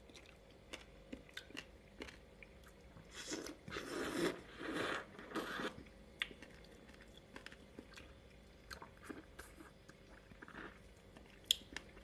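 A man chewing a mouthful of passion fruit pulp and seeds close to the microphone. It is louder for a few seconds from about three seconds in, then turns to scattered small crunches of the seeds.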